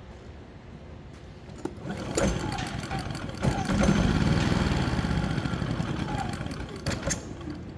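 Predator 3500 generator's small single-cylinder engine picking up and running for a few seconds, then fading out and dying, with a couple of sharp clicks as it stops. It won't keep running with the choke off, a sign of a fuel-delivery fault.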